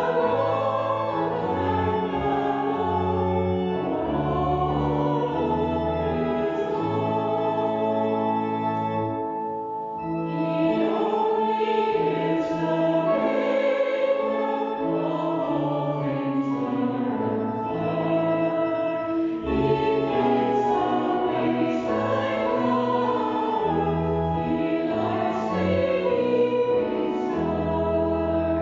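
Church congregation singing a harvest hymn in sustained, chorale-like lines, with a brief break between phrases about ten seconds in.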